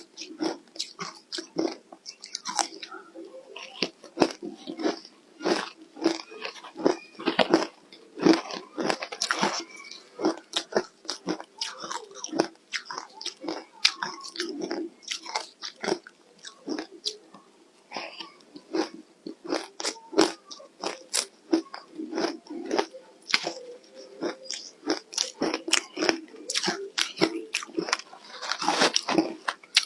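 Close-miked biting and chewing of ice coated in matcha green tea powder, a steady run of sharp, irregular crunches several times a second.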